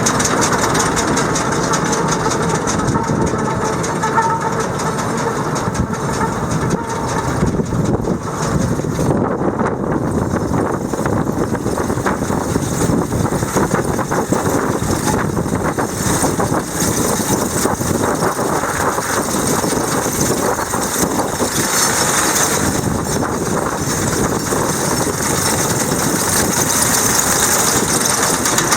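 Tractor engine running steadily at a constant speed, the kind of tractor that pulls and powers a New Holland 560RB round baler.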